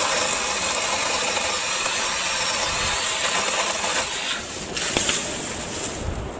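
BLACK+DECKER 18V cordless saw running, starting abruptly with a motor whine. It holds steady for about four seconds, dips, picks up once more briefly, then trails off near the end.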